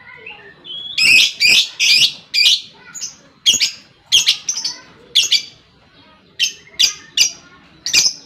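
Lovebird giving a run of loud, high-pitched chirping calls, about two a second at uneven spacing.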